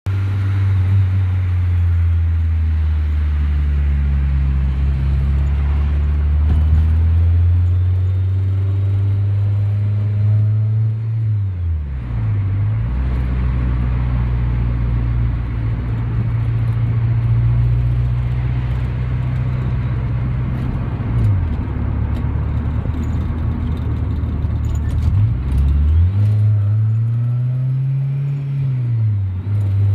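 Swapped Honda K20A2 2.0-litre inline-four in a 1996 Civic hatchback, heard from inside the cabin while driving: a steady low engine drone. Its pitch dips and comes back three times, about twelve, twenty-one and twenty-five seconds in, then rises and falls again near the end.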